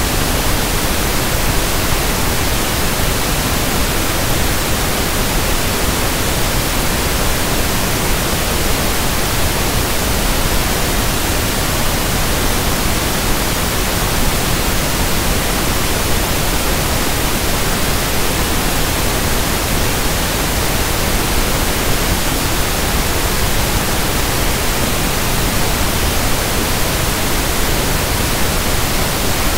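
Synthetic pink noise (1/f noise): a steady, even hiss that never changes.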